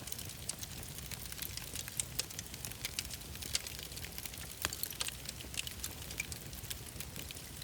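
Wood fire crackling in a fireplace: irregular sharp pops and snaps over a low steady rumble of burning.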